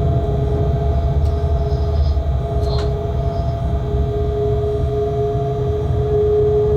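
Freight locomotive running, heard from inside its cab: a steady low rumble with a steady whine, and a couple of faint clicks.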